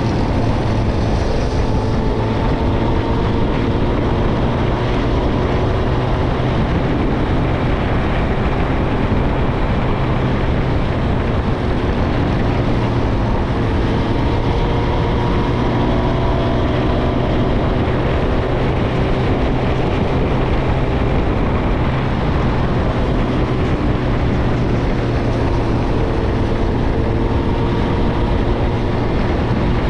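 Suzuki GSX-R1000's inline-four engine through a Yoshimura Alpha exhaust, cruising at gentle, steady throttle, its note rising and falling slightly, with wind and road noise over it.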